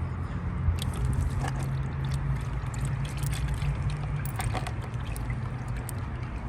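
Engine oil pouring in a steady stream from the drain-plug hole of a 2023 Kawasaki ZX-10R's sump into a drain pan, with a few small clicks scattered through it.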